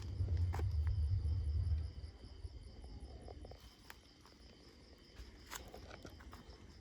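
Crickets or similar insects chirping in a steady, high-pitched pulsing chorus. A low rumble runs over it for the first two seconds and then drops away, with a few scattered clicks and rustles.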